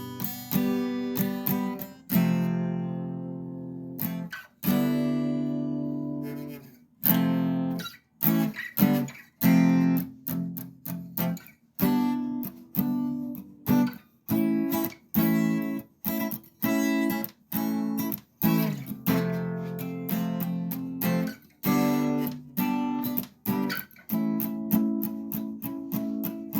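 Acoustic guitar strumming chords, with a few chords left to ring out early on and then a steady strummed rhythm.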